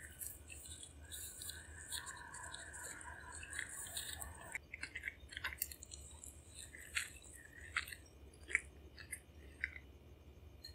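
Chewing a soft, coconut-coated pink roll cake: a steady soft chewing sound for the first four seconds or so, then a string of sharp mouth clicks, the loudest about eight and a half seconds in.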